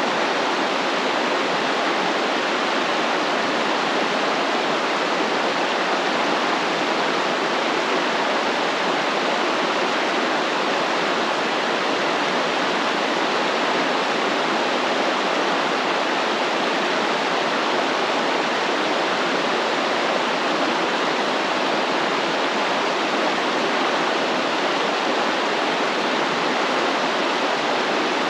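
Stream water flowing, a steady even rush with no break or change.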